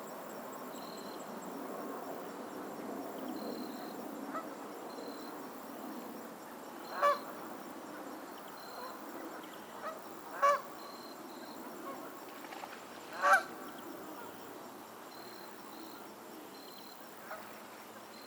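Geese honking: three loud single honks about three seconds apart, over a steady background of softer sound from the flock.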